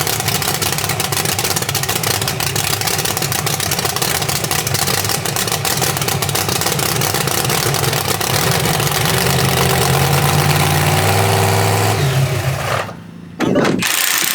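A large engine running steadily, then revving up from about nine seconds in. The sound breaks off suddenly for a moment shortly before the end.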